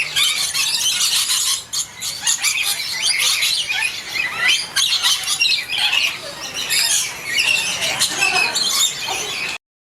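Indian ringneck parrot squawking and screeching in quick, continuous series of shrill calls. The sound cuts off abruptly near the end.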